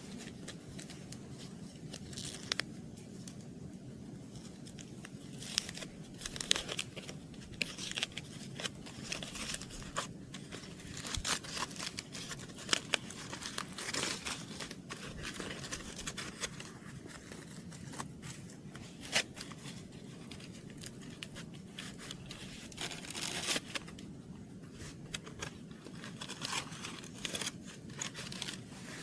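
Irregular crinkling, rustling and tearing noises with scattered sharp snaps, over a steady low background noise.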